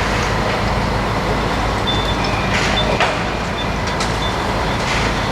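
MAN truck's diesel engine running steadily, with a metallic knock about three seconds in.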